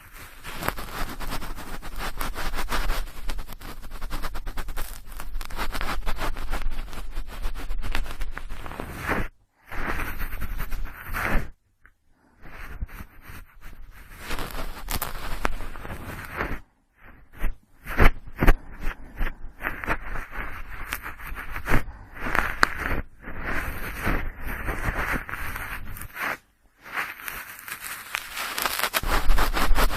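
Cotton swab swirled and rubbed inside the ear of a binaural microphone: close, scratchy rustling and crackling in long stretches, broken by a few short pauses.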